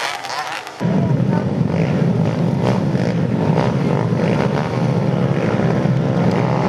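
Several motorcycle racing engines running together, loud and steady, coming in abruptly about a second in after a quieter sound cuts off.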